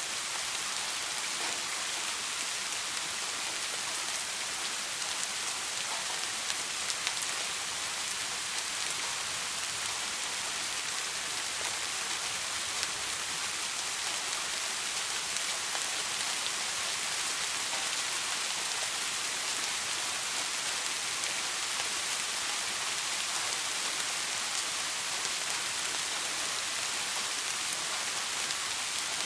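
Steady soft rain falling, an even hiss of many drops with a few separate drop ticks now and then.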